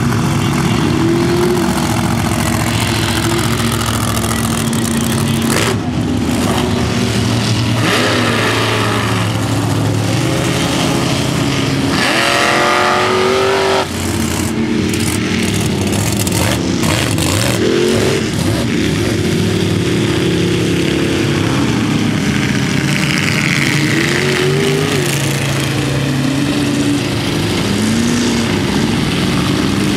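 Engines of modified mud trucks running, several at once, with repeated revs that rise and fall in pitch.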